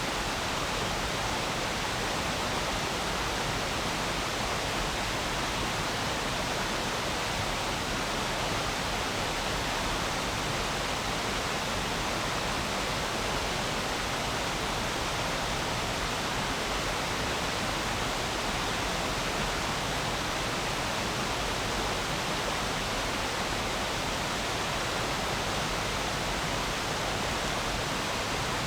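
Stream flowing, a steady, even rush of water.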